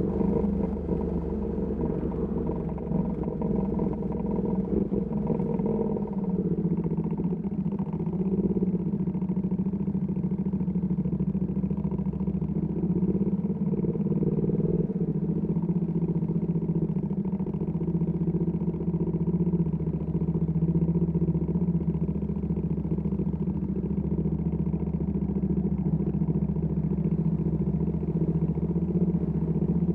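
Ducati Panigale V2S V-twin engine through a Termignoni exhaust, running at low, fairly steady revs in city traffic, with small changes in the first several seconds and then an even note.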